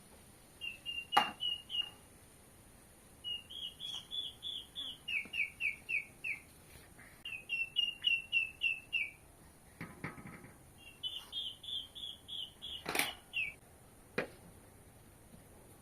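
A small songbird singing repeated phrases of quick, high chirping notes, four to six notes to a phrase, with short gaps between. Two sharp knocks land about a second in and near the end, the first of them the loudest sound, and there is a brief scrape in the middle.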